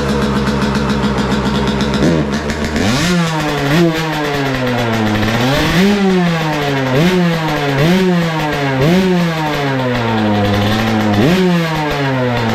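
2022 Yamaha YZ125 two-stroke dirt bike engine on its stock muffler, idling just after starting and then revved in a string of about seven quick blips before settling back to idle near the end. Very loud; revving this hard right after start-up is something the rider warns can blow up the engine.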